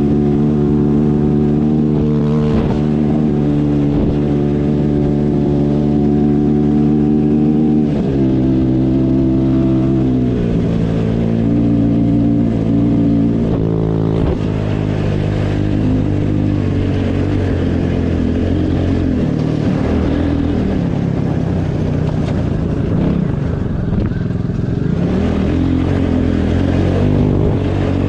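Motorcycle engine running at steady revs, its pitch dropping in two steps about eight and ten seconds in, then rising and falling unevenly as the throttle changes.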